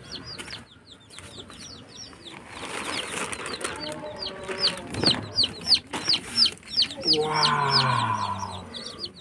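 Chicks peeping steadily: a run of short, high, falling peeps about three a second. A lower, longer call comes in about seven seconds in.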